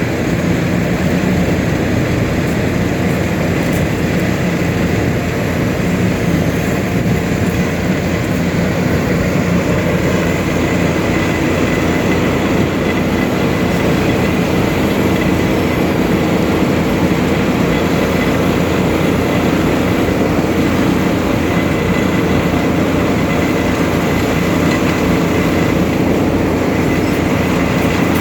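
Heavy asphalt-paving machinery, such as a paver, rollers and dump trucks, running steadily with a continuous diesel engine drone and machine rumble.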